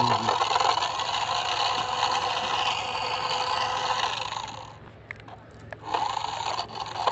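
A small motor running steadily with a rough, buzzing tone. It cuts out about five seconds in and starts again about a second later.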